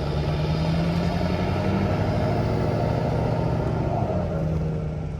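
An engine running steadily, its pitch dropping slightly about two seconds in and shifting again around four seconds.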